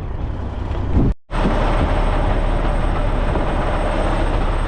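Strong gusting wind blasting the camera microphone, a steady loud rush with a heavy low rumble, briefly cut off about a second in.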